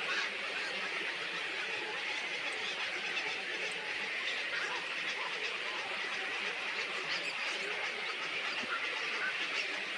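Dense, continuous chatter of many small birds calling at once, steady throughout.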